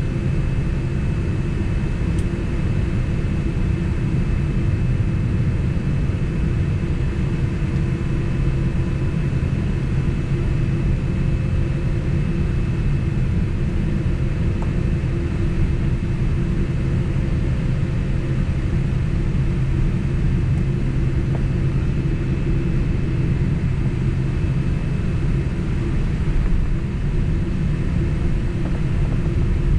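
Steady rumble of a Boeing 767 airliner's jet engines and rushing air heard inside the passenger cabin, with several constant hums running through it.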